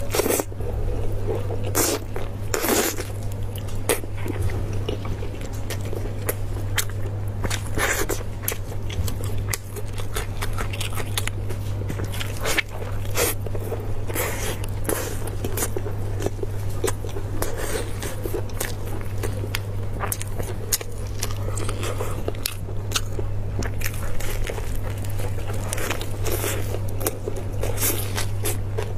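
Close-miked chewing and biting of sauce-covered braised beef: irregular wet smacks and clicks of mouth and teeth throughout, over a steady low hum.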